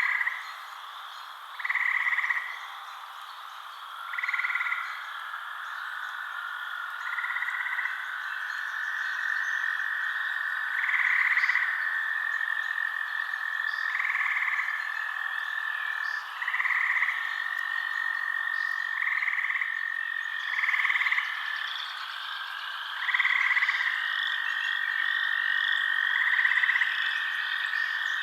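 A frog calling at night, one short croak about every two and a half seconds, over a steady high trill.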